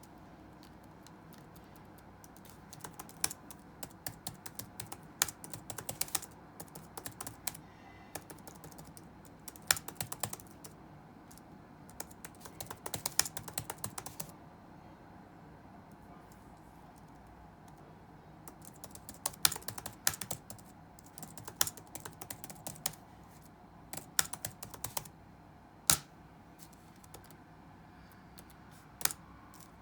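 Computer keyboard typing: runs of rapid keystrokes lasting a few seconds, broken by pauses of several seconds, with single strokes near the end. A faint steady background noise sits under it.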